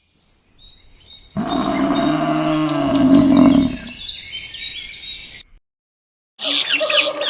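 Birds chirping, joined about a second and a half in by a long, low animal call that rises and then falls in pitch and lasts about two and a half seconds. After a short break, a burst of high, rapid chattering calls starts near the end.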